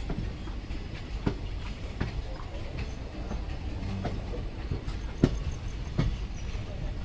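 Indian Railways express train's passenger coaches rolling along, heard from on board: a steady low rumble with sharp, irregularly spaced knocks as the wheels run over rail joints and points, about five in all, the loudest a little past halfway.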